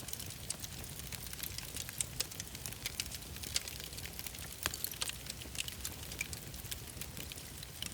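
Wood fire in a fireplace crackling, with irregular sharp pops over a low, steady rumble.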